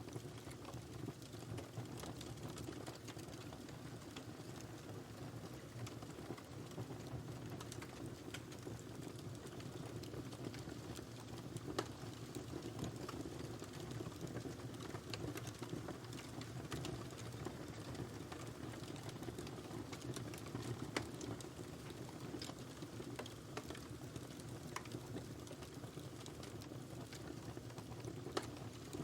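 Wood fire burning in a fireplace: a steady low rush of flames with frequent irregular crackles and pops, a few sharper snaps standing out.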